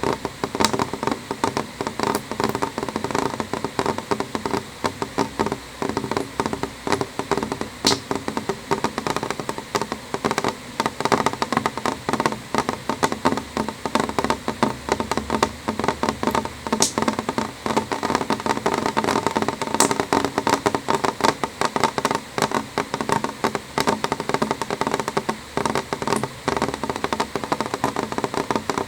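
Rain falling steadily on a window pane: a dense, unbroken stream of drops ticking against the glass.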